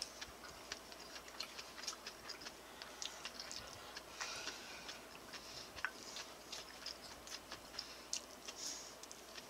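A person chewing a mouthful of stir-fried pork: faint, irregular small wet clicks and smacks from the mouth, several a second, over a light hiss.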